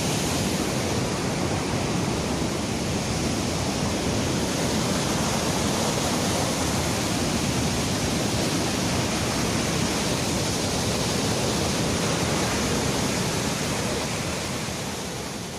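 Steady rushing of a waterfall, fading out near the end.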